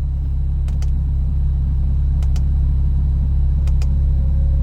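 Porsche 911 (991) Turbo's twin-turbo flat-six idling steadily, a low hum heard from inside the cabin. Faint paired ticks come about every second and a half.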